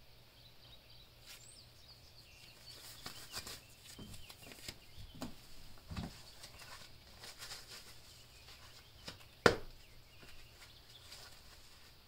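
Faint outdoor ambience with scattered bird chirps, broken by a few soft clicks and one sharp click about three quarters of the way through.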